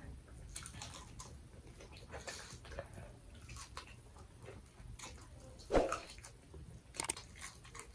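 Faint mouth sounds of someone eating a saucy chicken wing: small wet clicks and smacks, with one short louder sound about six seconds in.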